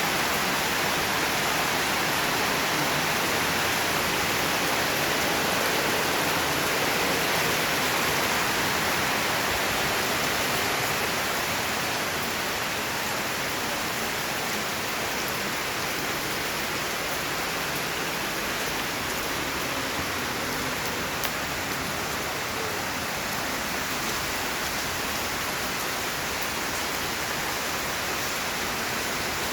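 Heavy rain falling in a steady dense hiss, a little heavier for the first ten seconds or so and then easing slightly.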